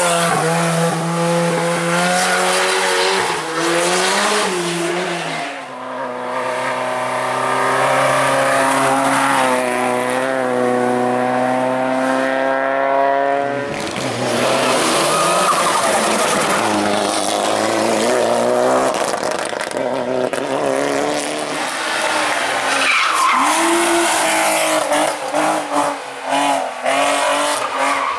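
Hillclimb rally cars driven flat out, engines revving hard through the gears. In one long pull about a third of the way in, the engine note climbs steadily for several seconds and then drops sharply at a gear change, with tyre squeal and skidding noise around it.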